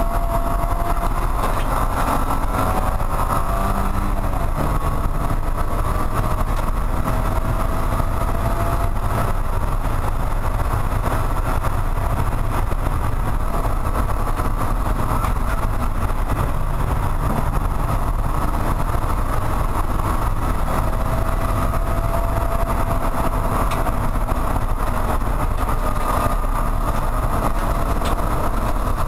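Porsche 944 Spec race car's four-cylinder engine running hard at track speed, heard from inside the cabin. Its pitch climbs twice as the car accelerates.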